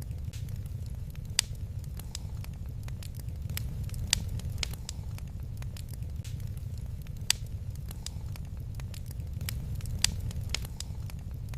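Wood fire crackling in a fireplace: irregular sharp pops and snaps, a few louder ones every few seconds, over a steady low rumble.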